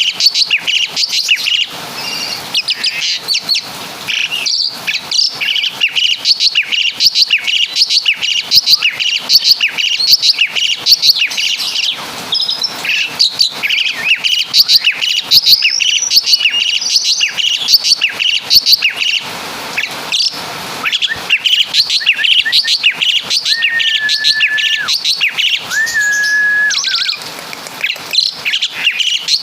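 Javan pied starling (jalak suren) singing nonstop: a dense, rapid string of sharp chirps and trills, with a couple of long, even whistles near the end. The song is full of the quick 'tembakan' phrases it mimics from the kapas tembak and caladi (woodpecker).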